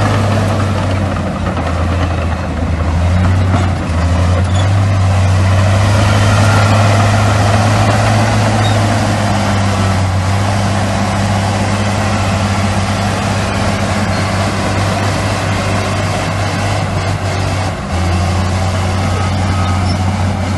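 Heavy diesel engine of earthmoving machinery (bulldozer or dump truck) running steadily with a deep low drone.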